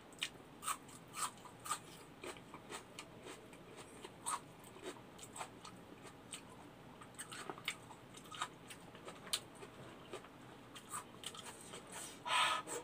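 Close-up eating sounds of a person chewing rice, fish and kimchi eaten by hand: irregular soft clicks and smacks of the mouth. A short, louder breathy noise comes near the end.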